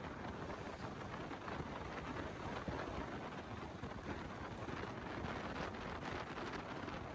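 Steady wind noise rushing over the microphone, an even low rumble with no separate events.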